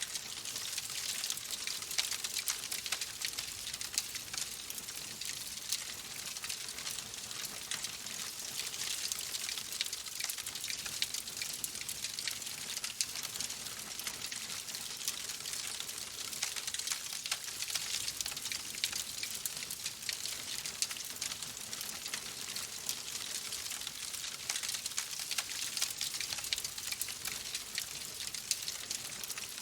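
Steady rain: a dense, even hiss made of countless small drop ticks, with no change in intensity.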